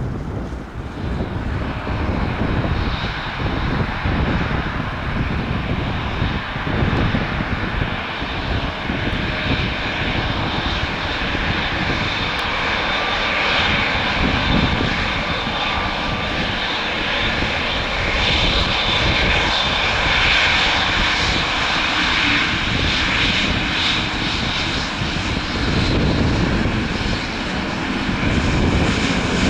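Boeing 787-10 airliner's jet engines running steadily while it taxis, a continuous rushing engine noise with low rumble that grows slightly louder near the end.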